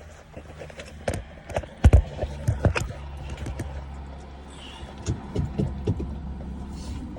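Scattered metal knocks and clanks from a pallet jack being worked under a pallet of bricks, the loudest about two seconds in and a cluster near the end, over a steady low hum.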